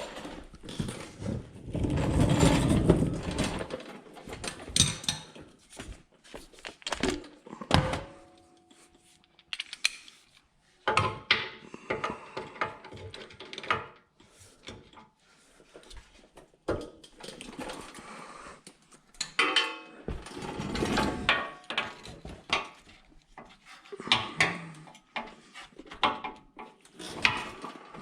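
Irregular clanks, knocks and rattles of hand tools and metal parts being handled during vehicle repair work, with a brief metallic ring about eight seconds in.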